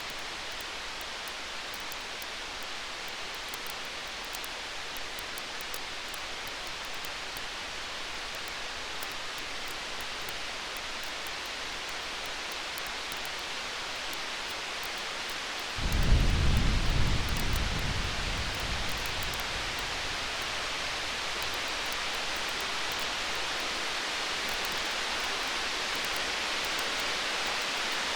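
Distant thunder: a low rumble breaks in suddenly about halfway through, swells for a couple of seconds, then fades away. Under it runs a steady hiss with the faint crackle of a campfire.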